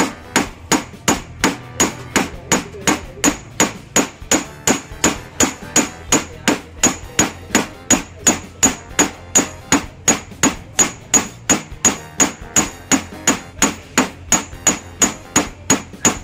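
Small hand hammer striking steel wire on a steel block, steady metal-on-metal blows about three a second, each with a short bright ring. The wire's tip is being beaten thin to form the barb of a handmade fishing hook.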